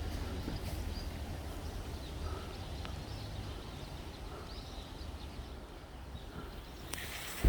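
Outdoor ambience: a steady low rumble with faint, scattered bird chirps, ending in a sudden loud knock.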